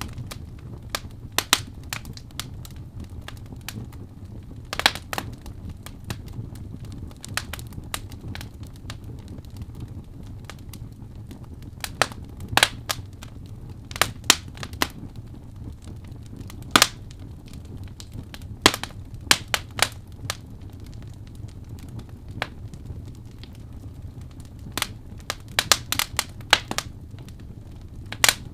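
Wood fire burning in a fireplace: irregular sharp crackles and pops, some in quick clusters, over a steady low rumble of the flames.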